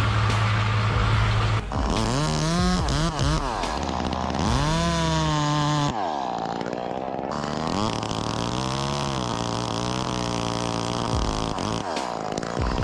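Chainsaw engine revving up and down over and over, its pitch rising and falling, after a steady low engine drone that gives way about two seconds in.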